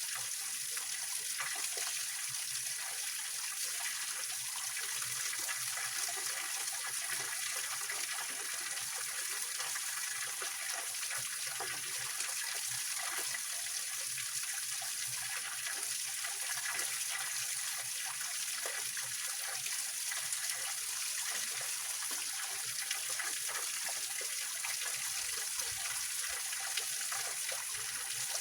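A small waterfall on a rocky mountain stream, water splashing and trickling over the rocks in a steady rush.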